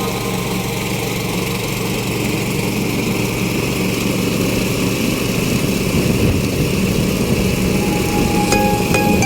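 Hand tractor's small engine running steadily under load. Background music comes in near the end.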